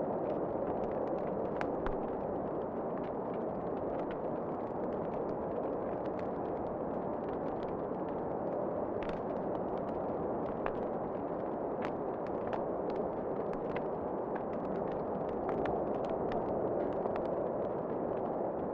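Wood fire in a fireplace crackling, with many scattered small sharp pops over a steady rushing background that swells slightly near the end.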